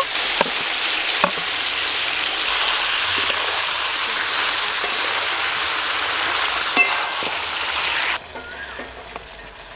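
Chicken pieces sizzling in hot oil in a wok as ground spice paste is added and stirred in with a spatula, with a few sharp scrapes of the spatula against the pan. The sizzling drops away suddenly about eight seconds in.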